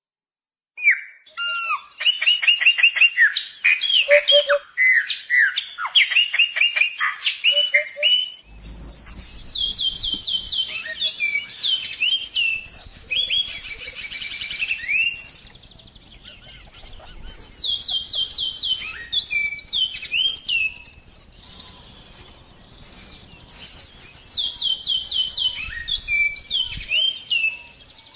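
A songbird singing long, varied phrases of rapid trilled and whistled notes, with short pauses between phrases. A low background noise comes in about eight seconds in.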